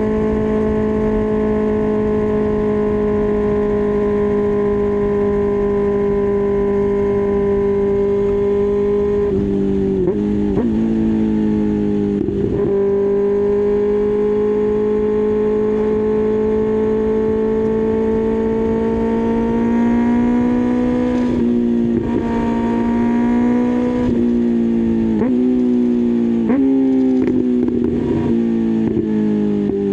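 2024 Kawasaki ZX-6R's 636 cc inline-four engine running at a steady high-revving note under way. About ten seconds in, the pitch steps quickly down and up through a couple of gear changes. From about twenty seconds in it drops in a series of steps as the bike slows down through the gears.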